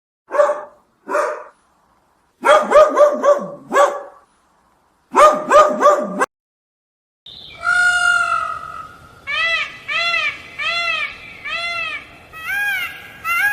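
A dog barking and yipping in short sharp bursts, singly and in quick runs. After a pause comes a long high cry, then a run of repeated high cries that rise and fall, about two a second.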